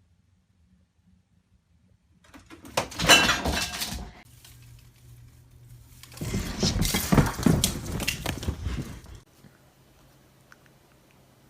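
Two bursts of clattering and rattling of hard objects, the first starting about two seconds in and lasting about two seconds, the second longer and lasting about three seconds.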